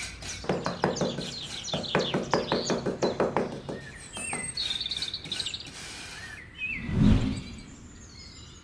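Birds chirping, with a rapid warbling trill about four seconds in, over a run of quick clicks, and a short low whoosh about seven seconds in.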